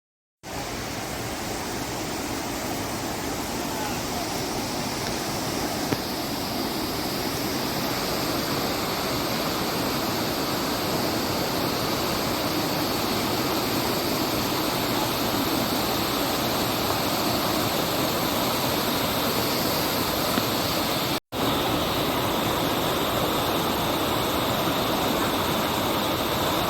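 Steady rush of the Mossman River running over granite boulders, with one very brief break about three-quarters of the way through.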